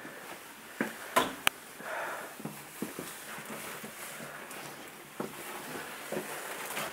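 A few sharp knocks and clicks scattered over soft rustling handling noise, with the loudest knocks about a second in.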